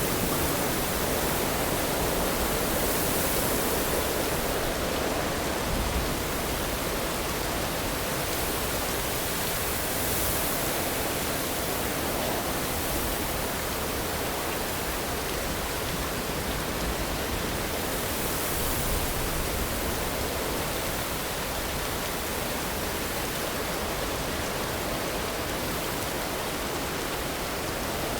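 Steady rainfall as an even hiss, swelling slightly a few times.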